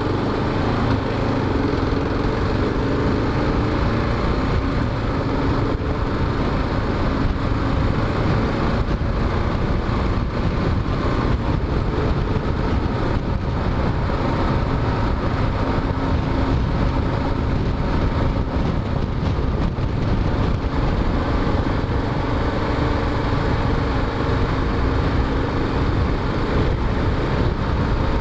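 Kawasaki KLR single-cylinder motorcycle engine running steadily while riding in traffic, with a dense rushing noise from riding over it.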